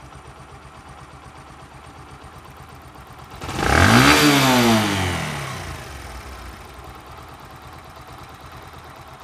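Bajaj Discover 125's single-cylinder four-stroke engine idling with an even beat, blipped once about three seconds in so the revs rise sharply and then fall back to idle. The top end has just been repaired: the valve guides were redone and the cam rockers refitted to cure a bad engine noise. The mechanic calls the result an A-class sound.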